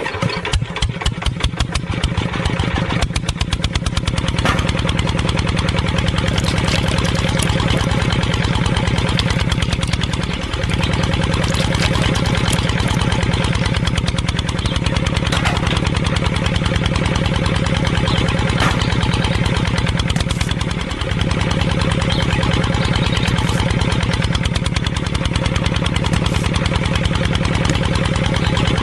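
Tractor engine starting, its firing quickening over the first few seconds, then running steadily at idle, dipping briefly twice.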